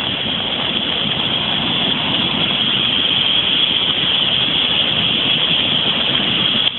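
Floodwater rushing: a steady, even noise that holds at one level throughout.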